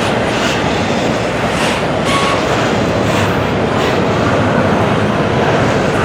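A train passing close by: steady rumble of wheels on rail, with irregular clacks as the wheels cross rail joints.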